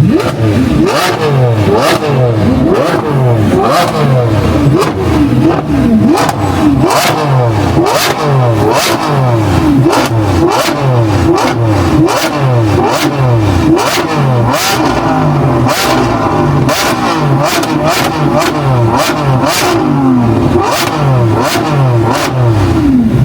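Car engines revving again and again, the pitch rising and falling about twice a second, with sharp cracks mixed in.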